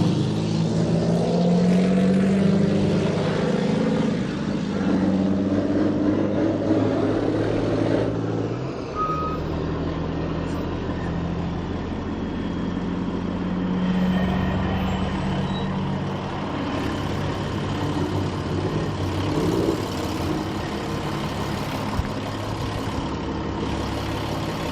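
Big diesel engines of rally-raid race trucks running at the start line, a deep, steady engine note that shifts about eight seconds in. A short high beep sounds shortly after.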